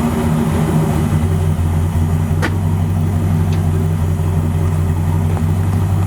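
Swapped Ford Explorer 5.0 V8 in a 1986 Crown Victoria, breathing through shorty headers, a catted H-pipe and Magnaflow mufflers, running at a steady speed with a fairly quiet exhaust note, the engine itself more pronounced than the exhaust. A brief click about two and a half seconds in.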